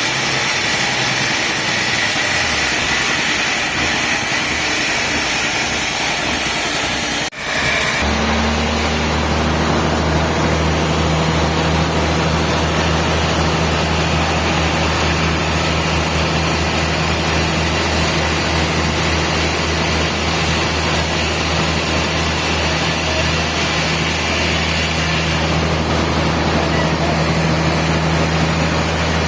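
Sawmill machinery running with a steady engine-like hum; about seven seconds in the sound briefly drops out and comes back as a deeper, steadier low drone.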